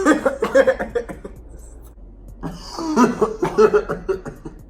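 People laughing in two bursts of quick, choppy laughs, the second starting about halfway through.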